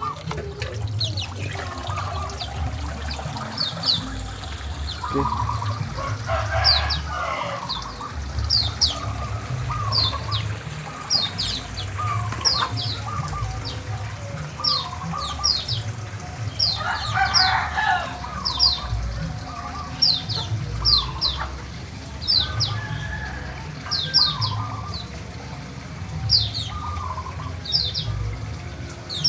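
Chickens clucking, with a rooster crowing about a quarter of the way in and again past the middle, over short high chirps repeated about once a second and a steady low rumble.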